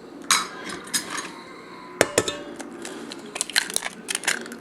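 A utensil clinking and scraping against a mixing bowl while rolled oats and eggs are stirred together, in irregular strokes with one sharp knock about two seconds in.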